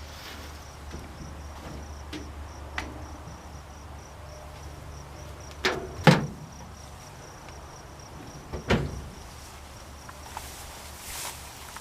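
A few sharp metallic knocks from work on the old truck, two close together about six seconds in and one near nine seconds, over a steady low hum.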